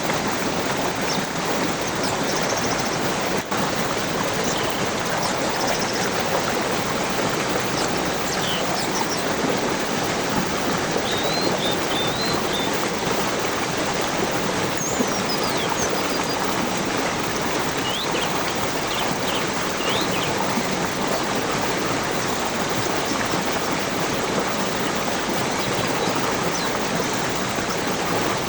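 Steady rushing stream of flowing water, with small birds chirping faintly over it now and then, mostly in the first two-thirds.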